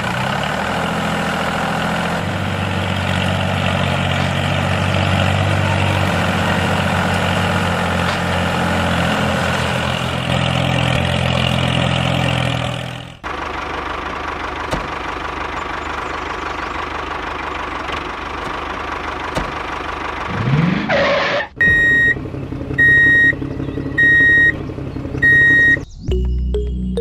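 An engine runs steadily. After an abrupt cut a second, steadier engine sound runs, followed by a brief rising sweep. Near the end come four short high beeps about a second apart.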